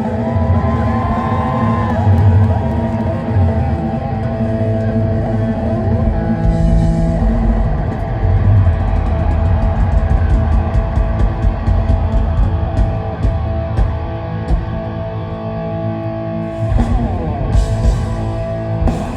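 Live rock band playing an instrumental passage: electric guitar and bass sustaining chords over a drum kit, with a run of evenly spaced cymbal strokes midway and heavier drum hits near the end.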